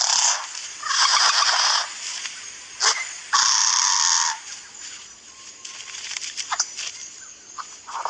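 A displaying bird giving three loud, harsh rasping calls about a second long each, the first already under way, followed by a few quieter clicks and short scratchy notes.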